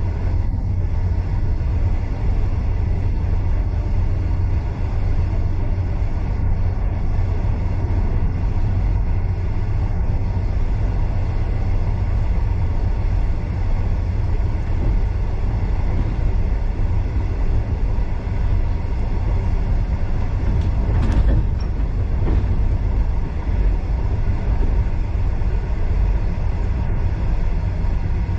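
Heritage passenger train running along the track, heard from a carriage: a steady low rumble of the wheels on the rails. A brief higher-pitched sound comes about three-quarters of the way through.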